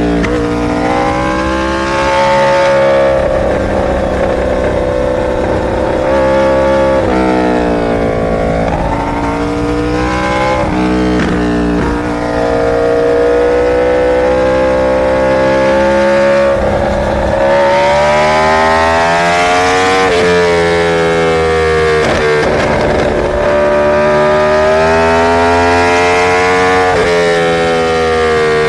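Inline-four superbike engine running under way. Its pitch climbs and drops again several times as it accelerates and shifts through the gears.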